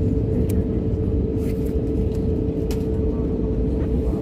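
Steady cabin noise inside a jet airliner: a continuous low rumble of the engines and airflow with a constant hum, plus a few faint ticks.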